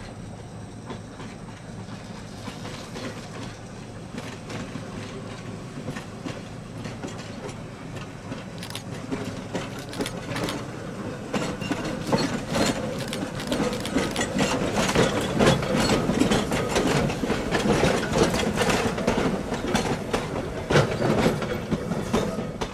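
A train passing close by, its wheels clattering over the rails. It grows steadily louder, with the clatter thickening from about eight seconds in, and cuts off suddenly near the end.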